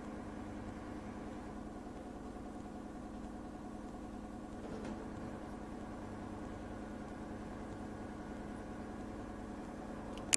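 LG direct-drive front-loading washing machine spinning, a steady motor hum with one strong even tone and a faint rattle about halfway through.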